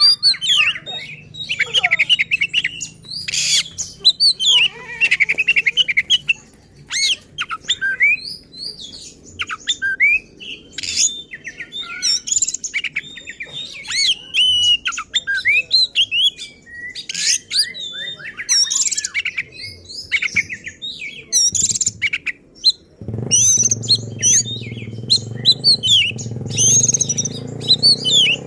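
A kacer (magpie-robin) singing hard: an unbroken run of rapid, varied whistles and sharp chirps, full of mimicked phrases. This is the excited, aggressive 'gacor' song in which the bird unloads its repertoire of borrowed calls ('bongkar isian'). A low steady hum comes in near the end.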